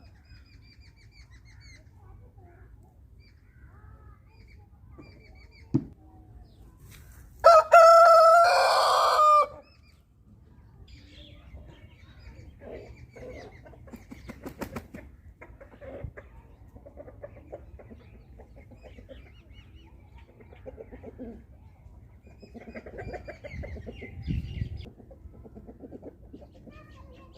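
A rooster crows once, loudly, for about two seconds, about a quarter of the way in. Around it are softer, scattered clucks and chirps from the chickens, and a single knock shortly before the crow.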